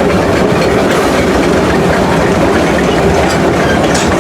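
Six Flags Railroad train running along the track, a steady, loud clatter of wheels and cars on the rails.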